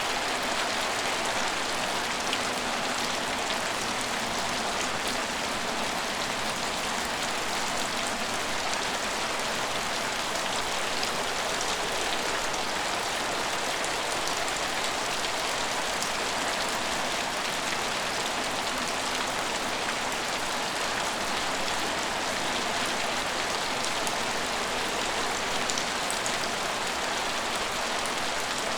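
Steady rain falling: an even, constant hiss of rainfall with faint scattered drop ticks.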